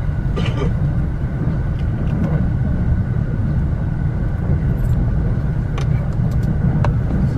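Electric commuter train running at speed, heard from inside the carriage: a steady rumble of wheels on rails, with a few short faint clicks.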